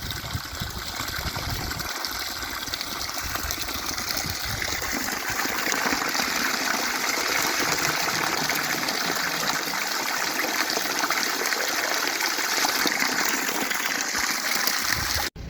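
Spring water running and splashing in a steady rush, cutting off suddenly near the end.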